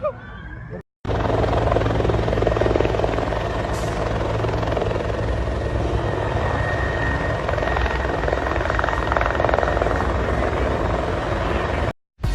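Helicopter in flight, its rotor beating steadily; the recording starts abruptly about a second in and cuts off just before the end.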